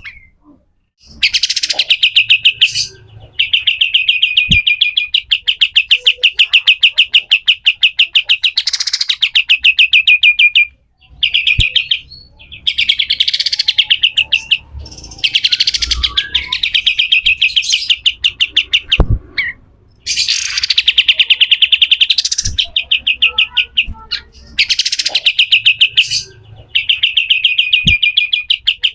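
Pied triller giving harsh, very rapid rattling chatter ('besetan kasar') in bouts of one to several seconds, separated by short pauses. A few faint knocks sound between the bouts.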